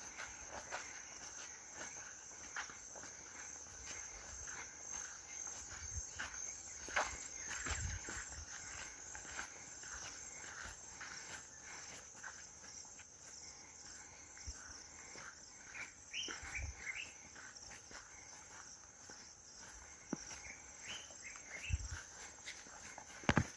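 Crickets chirring steadily in a high, even trill, with faint footsteps and a few short chirps near the middle.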